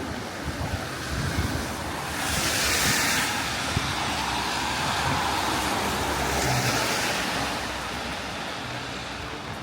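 A vehicle passing on a wet road: tyre hiss on rain-soaked tarmac swells to a peak a couple of seconds in, then fades slowly, over a low rumble.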